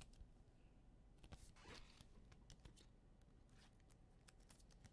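Near silence with a few faint clicks and rustles, typical of trading cards being handled and flipped.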